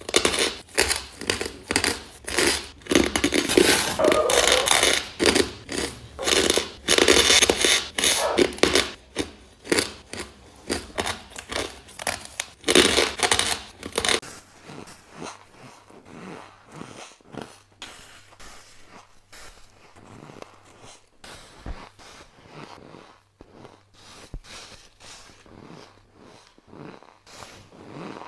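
Close-up crunching of ice being bitten and chewed, a rapid run of loud crunches that turns to softer, sparser chewing about halfway through.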